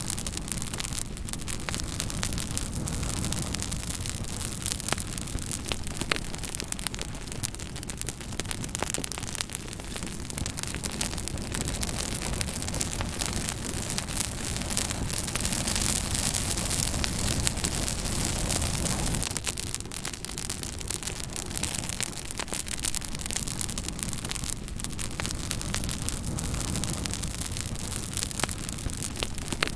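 Fire crackling: a steady stream of small pops and snaps over a low, constant rushing noise, a little louder around the middle.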